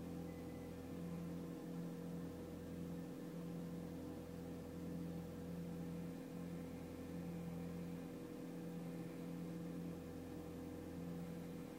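Audi TT 225 quattro's 1.8-litre turbocharged four-cylinder engine on a cold-start fast idle near 1500 rpm, a steady hum that swells and fades about every second and a bit. The owner can't explain why the high idle lasts over three minutes and notices the revs bouncing.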